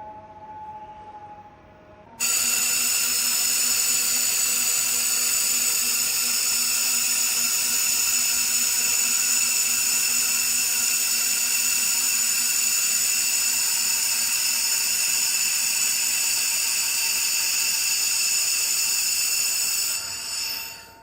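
Handheld air-cooled fiber laser welder running: a steady, high-pitched whine made of several tones. It starts suddenly about two seconds in, holds level for about eighteen seconds, then fades away near the end.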